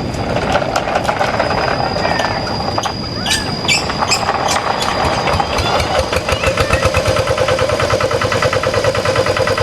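Rice-field tractor engine running with a fast, even chugging beat, settling into a steady note about six seconds in. A few sharp knocks come about three to four seconds in.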